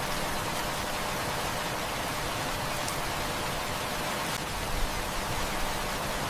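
Steady heavy rain, an even hiss of falling water, with a few faint sharp crackles of a wood fire.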